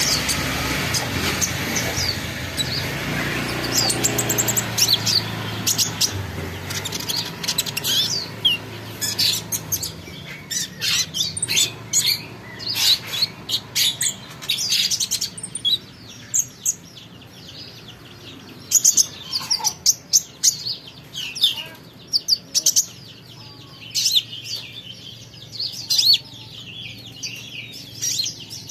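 A small songbird chirping: short, sharp, high notes in quick runs and clusters, more densely after the first several seconds. A low rumble is heard in the first few seconds and fades out.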